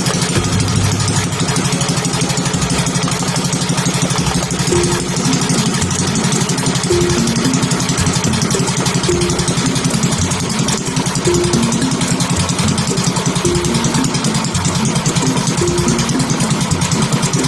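6.5 HP Briggs & Stratton marine-type single-cylinder gasoline engine running steadily with a fast, even firing beat.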